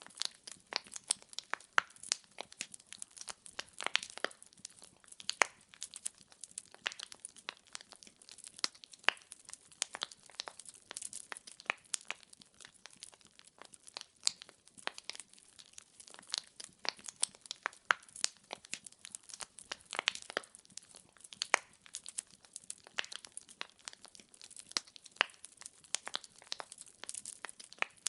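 Wood fire crackling: irregular sharp pops and snaps from the burning logs, several a second, over a soft hiss.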